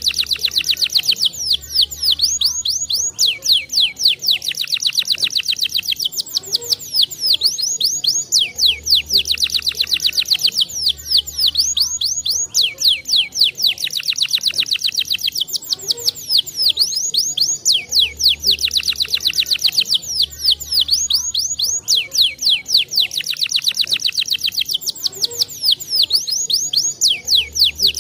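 Domestic canary singing: long, continuous song of rapid trills, fast runs of repeated high notes with hardly a break.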